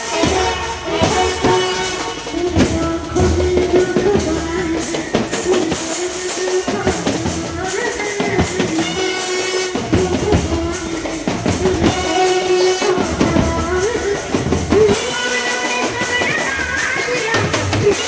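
Indian band playing a Hindi song: a melody line of held, sliding notes over a steady drum beat.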